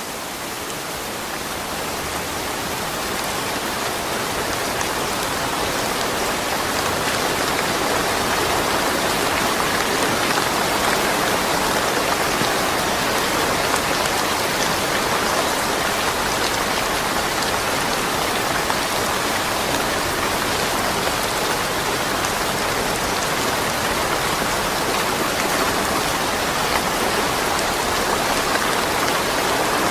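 Steady rain falling, a dense even patter with no thunder. It swells over the first few seconds, then holds steady.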